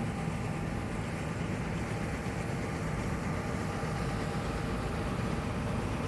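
John Deere S780 combine harvester running steadily, a constant engine and machinery drone with a low hum.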